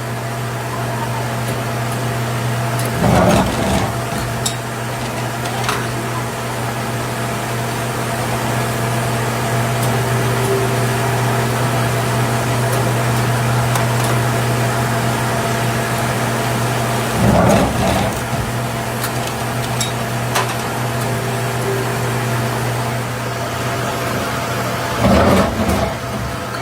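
Factory machinery running with a steady hum. Three short, louder noises sound over it: one about three seconds in, one around seventeen seconds, and one near the end.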